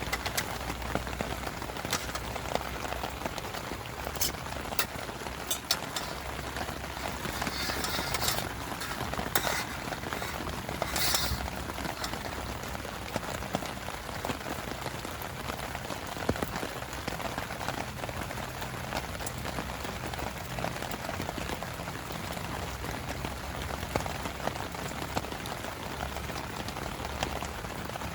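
Heavy rain falling steadily on a tarp shelter, an even patter with scattered louder drops ticking, a few of them clustered about a third of the way in.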